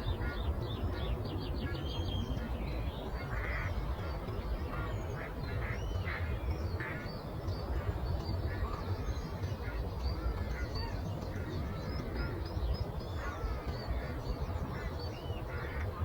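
Many birds calling at once, with several louder, arched calls standing out now and then, over a steady low rumble of breeze.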